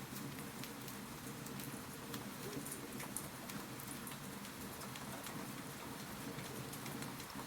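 Wood fire in a fireplace crackling: irregular sharp pops and snaps over a steady soft hiss.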